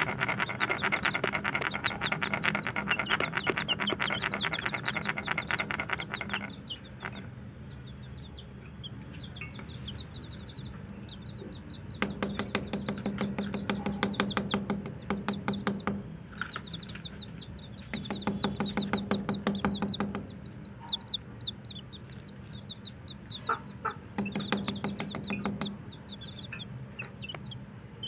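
A tool working a hole through the wall of an earthen clay pot, running in four bursts of rapid rasping pulses over a low hum: at the start, then about 12, 18 and 24 seconds in. Pet budgerigars chirp throughout.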